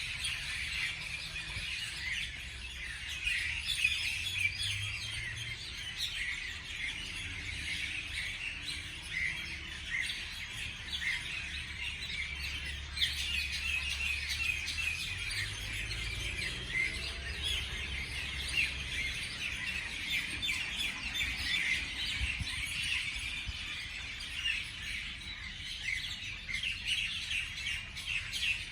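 Many small birds chirping and trilling at once in a dense, unbroken chorus of short high notes, with a low rumble underneath.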